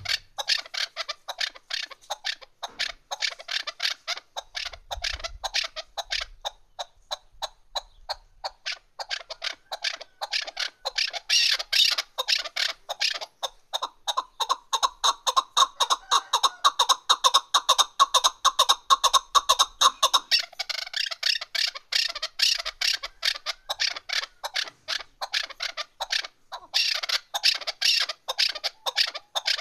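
Female chukar partridge calling: an unbroken, fast run of short clucking notes, several a second, loudest in the middle stretch.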